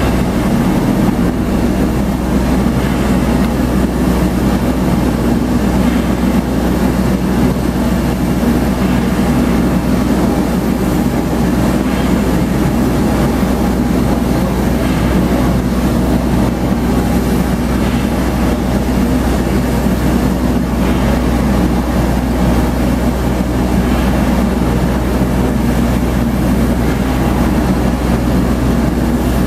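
Bell Boeing V-22 Osprey running, a loud steady drone from its twin turboshaft engines and proprotors that holds level throughout.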